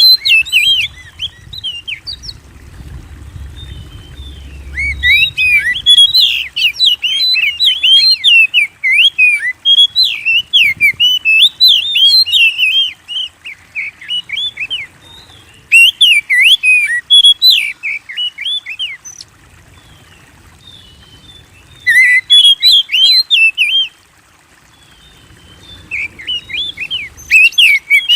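Oriental magpie-robin (kacer) in full, vigorous song: rapid, varied chirps and whistles delivered in several loud bouts with short pauses between them.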